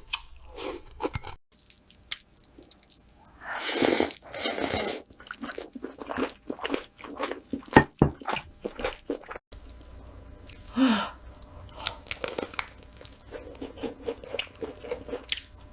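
Close-miked eating: wet chewing with many small clicks and crunches, and a louder run of bites about four seconds in.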